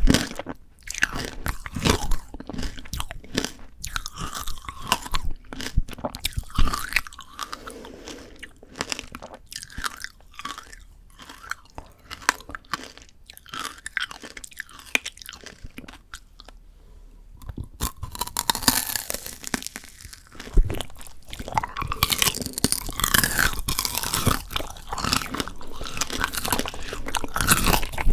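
Close-miked biting and chewing of frozen Shine Muscat grape tanghulu: the hard sugar-candy shell cracks and crunches between the teeth. The crunching thins out and grows quieter through the middle, then turns dense and louder again for the last third.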